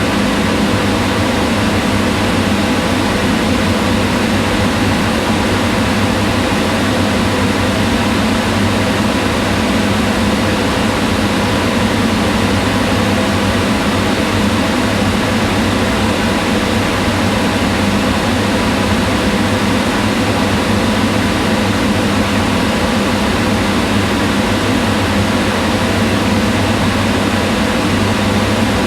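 Kitchen range hood fan running steadily: an even rush of air with a low hum and a few faint steady tones, unchanging throughout.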